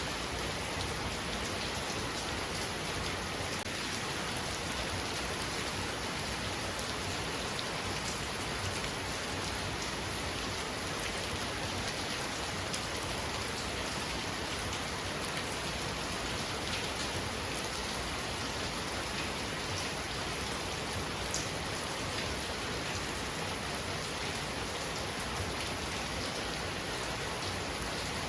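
Heavy rain falling steadily: a dense, even hiss of rain with many small drop hits throughout.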